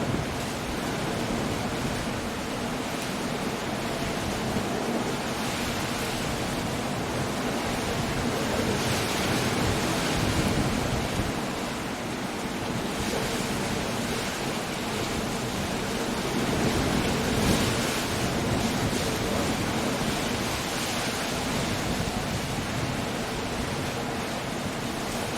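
Storm surf with rain and wind: a steady, dense rush of breaking waves and rainfall that swells a little about a third of the way in and again about two-thirds through.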